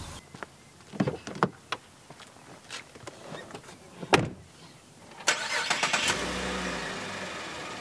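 A few clicks and knocks, then a single loud car-door thud about four seconds in. A little after five seconds a Cadillac CTS engine cranks and starts with a brief rev, then settles into a steady idle.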